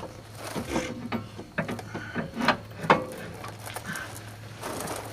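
Irregular metal clicks and knocks as a new CV axle's splined inner end is slid and worked into the transaxle, trying to line it up.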